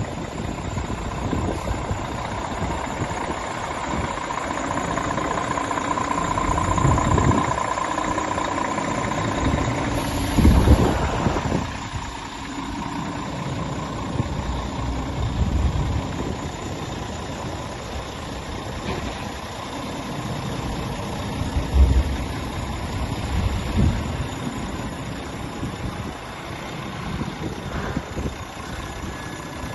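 Scania R 450 truck's 13-litre inline-six diesel idling steadily, with a few louder low thumps about 10 and 22 seconds in.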